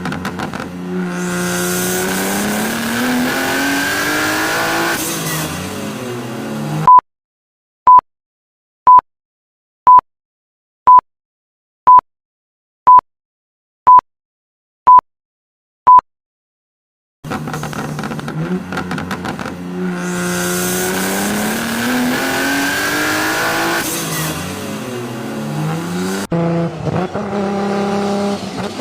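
A performance car's engine accelerating hard, its revs climbing and dropping at each gear change. Then come ten short, loud beeps one second apart, like a countdown timer. The same engine run then plays again, and near the end a cut brings in a different car's engine revving.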